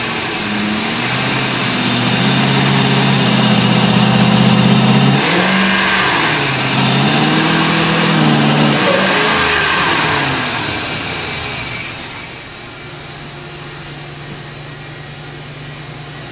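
Ford E250 van's 5.4-litre V8 engine being revved: held at raised revs for several seconds, blipped up and down a couple of times, then dropping back to a steady idle about three-quarters of the way through.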